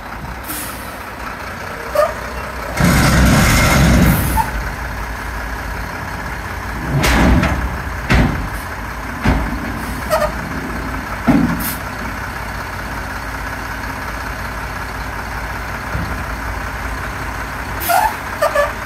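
Dump truck engine running steadily, with a loud burst of noise lasting about a second and a half near the start and several sharp knocks later on.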